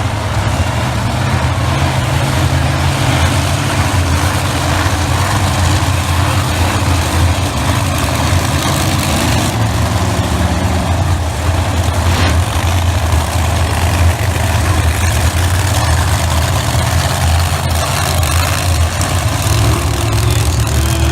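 Monster truck engines idling together in a steady, loud, low rumble.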